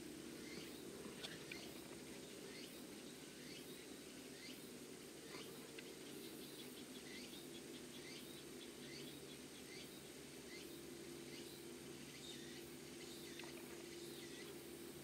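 Faint outdoor ambience: small birds chirping in the background with many short, quick, falling calls, over a low steady hum.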